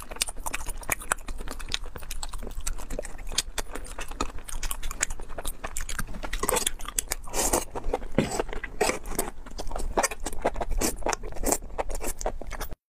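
Close-miked eating sounds: chewing with a dense run of wet smacking clicks as spicy food in chili oil is eaten. The sound drops out briefly near the end.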